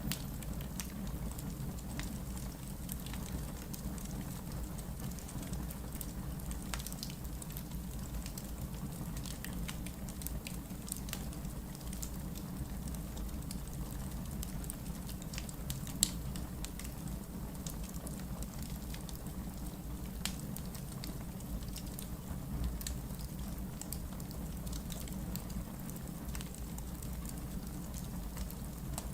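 Wood logs burning in a fireplace, crackling with scattered small pops over a steady low rush of the fire. One sharper, louder pop comes about halfway through.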